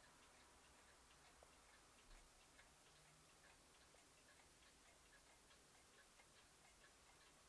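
Old Russian 'khodiki' weight-driven pendulum wall clock ticking: faint, fast, even ticks of the escapement.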